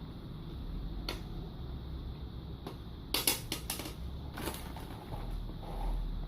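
German shepherd dogs crunching a hard snack: a quick run of sharp crunches about three seconds in, then a few single crunches.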